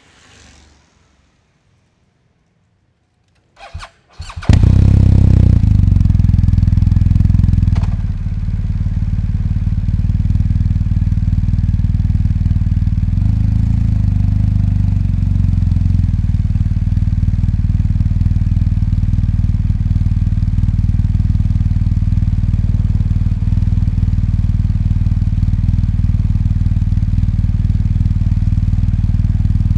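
BMW R 1250 GS boxer-twin engine being started: a couple of short clicks, then the engine catches about four seconds in and runs high and loud for a few seconds before dropping to a steady idle.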